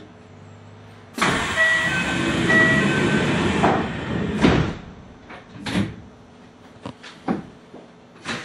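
Inside a Kintetsu Ikoma Line commuter train's cab, a sudden loud hiss starts about a second in and lasts about two and a half seconds, with two short beeps in it. It is followed by scattered clicks and knocks from the train rolling slowly along the track.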